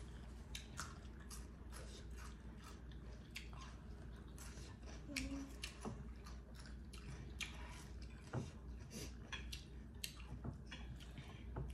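Close-miked chewing of people eating rice and curry with their hands, with many irregular small clicks of mouth and fingers on food.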